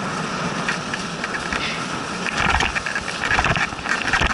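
A dog sled running over snow: the steady hiss of the runners, with a stretch of rattling and clicking from the sled and low thumps in the second half.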